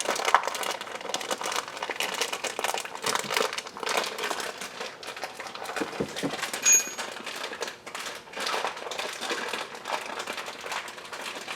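Plastic parts bag crinkling and crackling as it is handled and pulled at while someone tries to open it. There is a brief high squeak a little past halfway.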